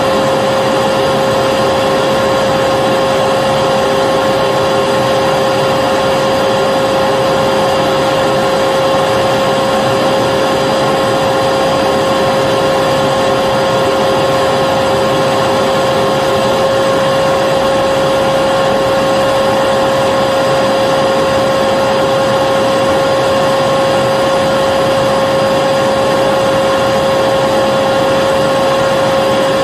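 Vacuum cleaner running steadily: a constant motor whine over a rushing airflow hiss, with no change in pitch or level.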